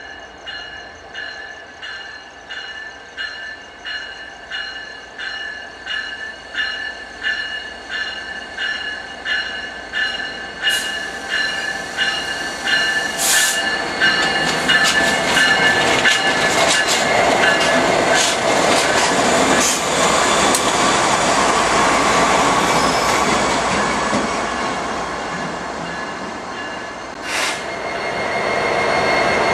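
A bell rings in steady strokes, about one and a half a second, growing louder as a BNSF SD70ACe diesel locomotive approaches. Halfway through, the locomotive passes close by, its engine and wheels running loud with a steady squeal from the wheels. A single sharp clank comes near the end as the cars roll by.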